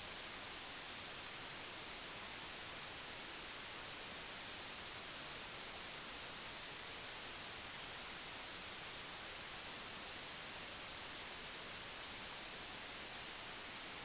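Steady, even hiss like static, unchanging in level, with no other sound.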